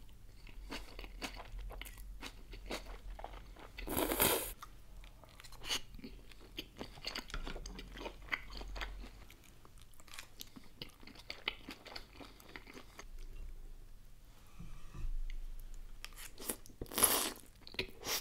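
Close-miked eating sounds: wet chewing of cold noodle salad and pork or vegetable dumplings, with crunching, lip smacks and small mouth clicks. The sound is louder about four seconds in and again near the end.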